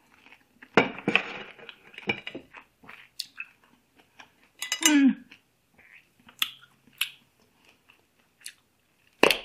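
A person chewing a mouthful of fresh pineapple dipped in hot chili sauce, with a short vocal 'mm' falling in pitch about five seconds in and a sharp breath sound near the end, a reaction to the chili's heat.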